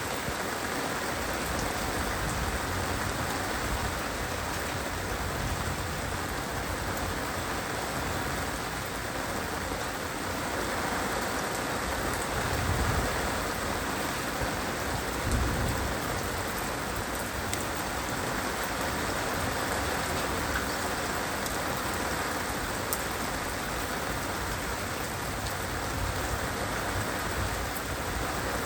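Heavy rain falling steadily in a dense, even patter, with a couple of brief louder swells about halfway through.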